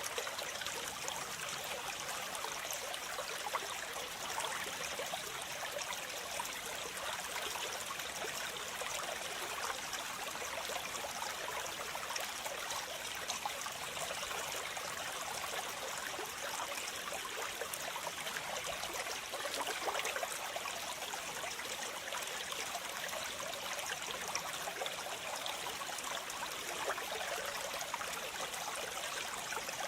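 Waterfall: water falling and splashing, a steady, even rush of white water.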